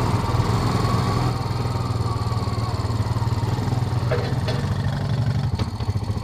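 Motorcycle engine idling steadily, with a few short clicks near the end.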